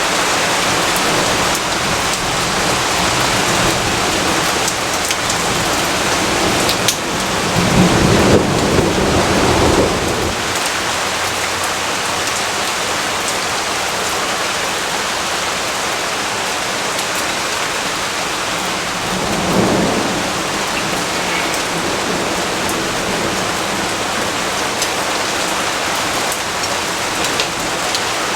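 Steady heavy rainfall, with a low rumble of thunder swelling about seven seconds in for some three seconds, and a weaker rumble around twenty seconds in.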